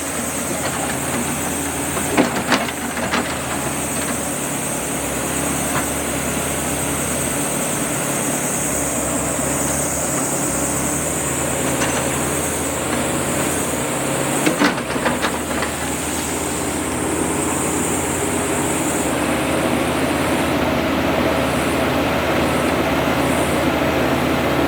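Backhoe loader's diesel engine running steadily under a constant hiss, with a few short knocks about two seconds in and again around fifteen seconds.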